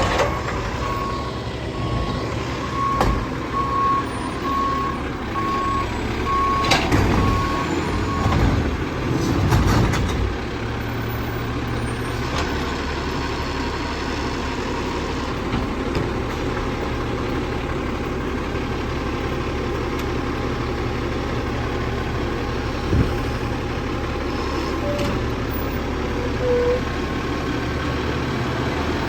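Diesel garbage truck running, its reversing alarm beeping steadily until about eight seconds in. A few metal clanks come over the engine noise in the first ten seconds, and once more near the end.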